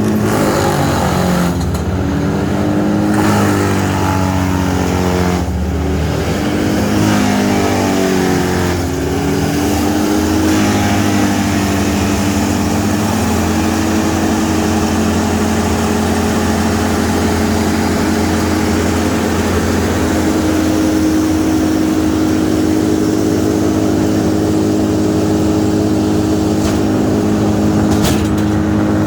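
A large engine running loud. Its pitch dips and recovers several times in the first ten seconds or so, as if loaded, then holds steady.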